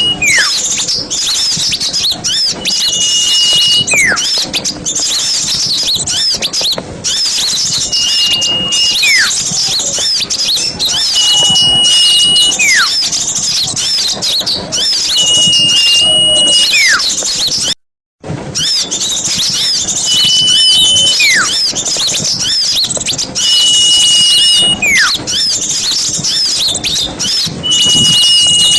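A lure recording of many small birds chattering busily at high pitch. Every four seconds or so, one call repeats: a held high note, then a whistle sliding steeply down. The sound cuts out completely for a moment about two-thirds of the way through.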